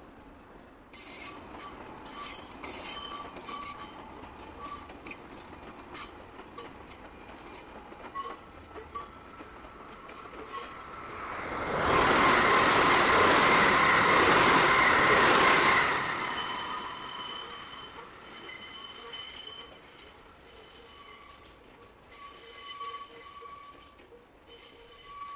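Electric commuter train passing close at speed: a loud rushing rumble that swells about eleven seconds in, lasts about four seconds and fades. Before and after it come intermittent high squeals and clinks of steel wheels on rails from trains moving through the yard.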